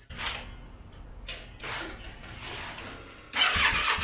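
A few light clicks, then about three seconds in the electric starter of a Yamaha V Star 650 begins cranking its V-twin engine with a steady rhythmic chugging. The engine turns over without catching.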